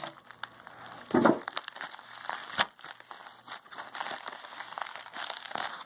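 A plastic bag crinkling and rustling as it is opened and its contents are pulled out, with a louder knock about a second in and a sharp click near the middle.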